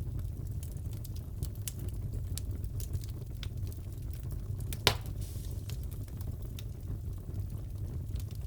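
Wood fire crackling in a fireplace: a steady low rumble of burning with scattered small crackles, and one loud pop about five seconds in.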